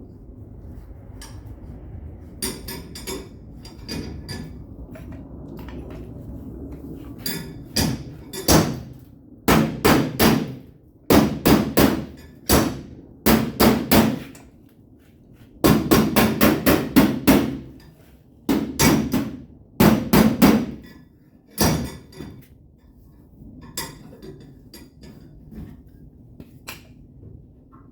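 Body hammer striking the sheet metal of a pickup's quarter panel against a dolly, in quick runs of sharp, ringing taps with short pauses between, to level dents in the panel. Lighter taps come at the start and near the end.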